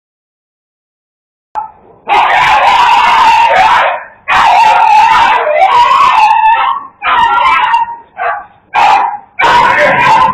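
Dogs fighting over food, snarling and barking in loud, drawn-out outbursts with short breaks between them, starting after about a second and a half of silence.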